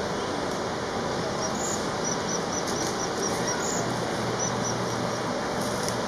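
Short, high-pitched chirps from a small bird: a quick run of about five a second, then a shorter run of four, over a steady background hiss and hum.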